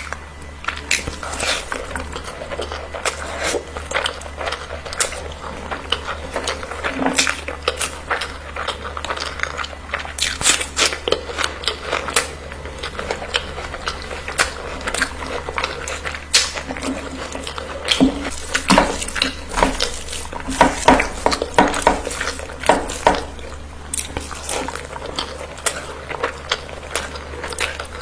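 Someone eating: a steady run of small clinks of dishes and cutlery mixed with chewing and biting sounds, over a steady low hum.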